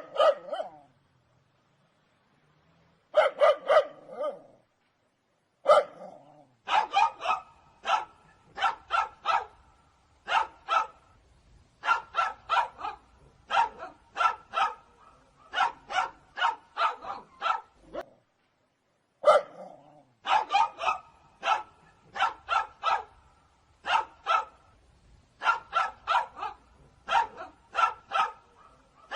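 Dog barking repeatedly: short, sharp barks in quick runs of about three a second, broken by a pause near the start and another about two-thirds of the way through.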